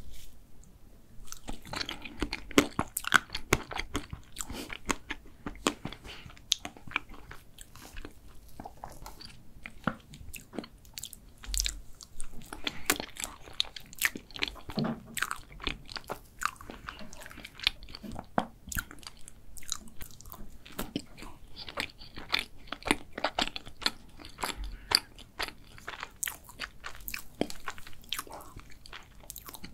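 Close-miked chewing of chocolate cake with a whipped-cream dome, with many small wet clicks and smacks of the mouth, starting about a second and a half in.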